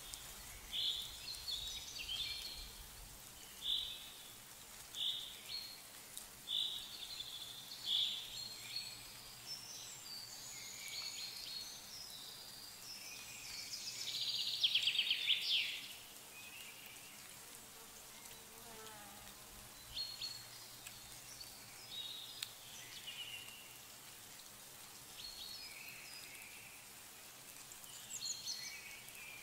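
Outdoor after-rain ambience with small songbirds chirping: short high calls a second or two apart, and a louder rapid trill about halfway through, over a faint steady hiss.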